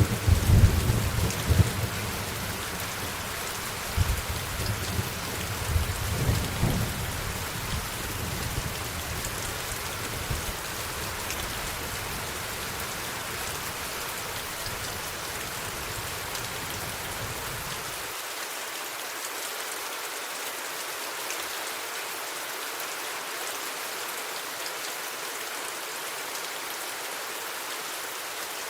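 Steady rain falling, with rolling thunder rumbling several times in the first third and fading away. About two-thirds through, the low rumble cuts off abruptly, leaving only the hiss of rain.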